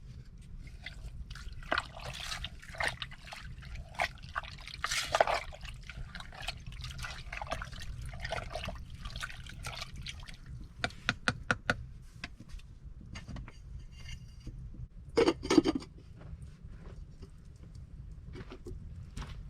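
Liquid being handled, with pouring and dripping among irregular clicks and knocks, and a louder cluster of knocks about three-quarters of the way through.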